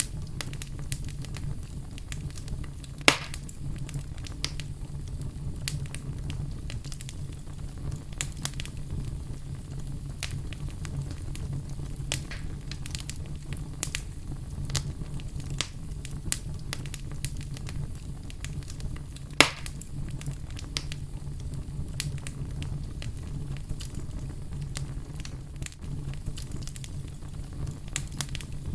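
Fire crackling steadily with many small pops, and two loud sharp pops, one about three seconds in and one about two-thirds of the way through, over a low steady rumble.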